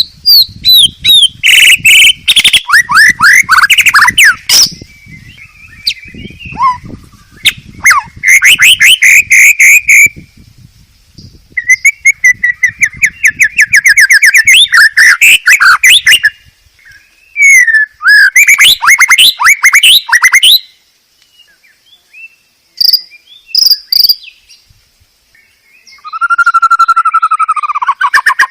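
Songbird song from a bird tutor recording (masteran): loud phrases of rapid trills and quick repeated notes, broken by short pauses, with a lower slurred phrase near the end.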